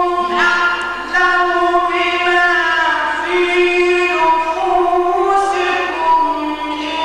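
A man's high voice chanting religious text in long, ornamented held notes that slide between pitches, in the melismatic mujawwad style of Egyptian Quran recitation, with only brief breaks.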